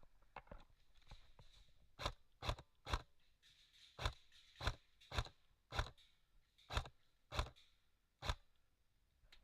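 Airsoft gun firing single shots, about ten sharp snapping clicks at uneven intervals of half a second to a second, starting about two seconds in.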